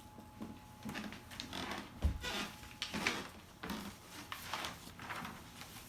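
Large sheets of paper rustling and crinkling as they are handled and folded, in a run of short uneven bursts, with a dull thump about two seconds in.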